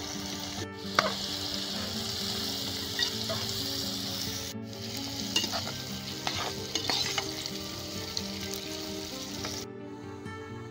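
Potatoes and cauliflower sizzling as they fry in oil in an aluminium pot on a gas burner. A metal spatula scrapes and clicks against the pot as they are stirred. The sizzling stops near the end.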